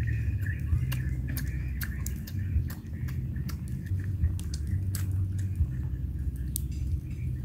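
Close-up chewing and mouth sounds of someone eating a rice-paper roll of grilled fish: many small, irregular wet clicks. A steady low rumble runs underneath.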